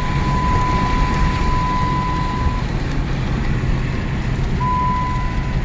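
A Jeep's warning chime (the dinger) sounding one steady high beep that stops about two and a half seconds in and starts again near the end, over the Jeep's engine and road noise while driving.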